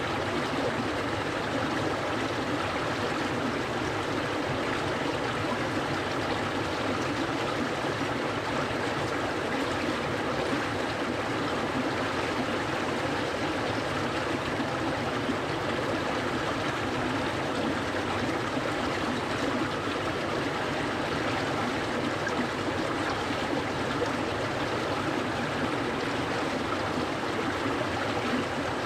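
Clear, cold mountain stream flowing and burbling over stones, a steady unbroken rush of water.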